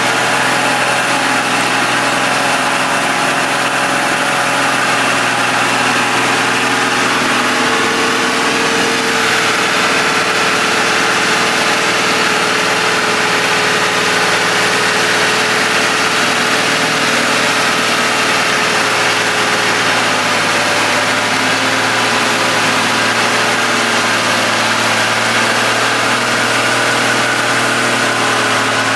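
Engine of a small off-road 4x4 running steadily at near-constant revs while the vehicle sits stuck in deep clay mud.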